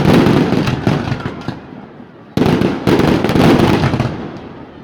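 Fireworks display: shells bursting overhead with dense crackling that fades, then a fresh loud volley about two and a half seconds in, crackling on and dying away near the end.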